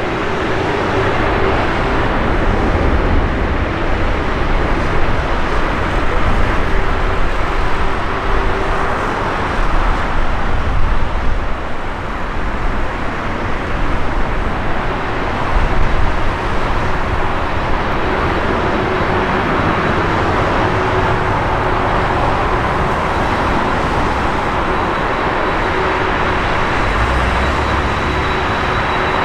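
Strong gusty wind buffeting the microphone, over a steady loud rushing noise with a faint hum that comes and goes.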